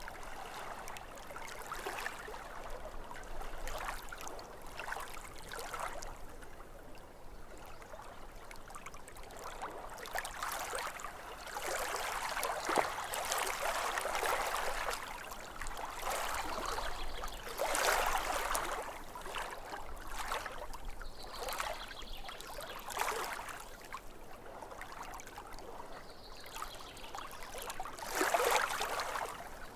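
Small waves lapping at a lake's edge, the water sloshing and splashing in uneven surges every few seconds.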